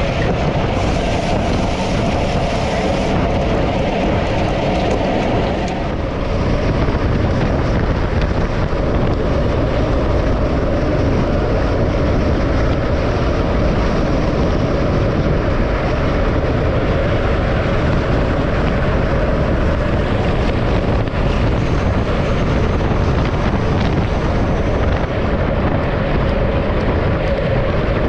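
Steady rush of wind and road noise on the microphone of a camera moving at speed.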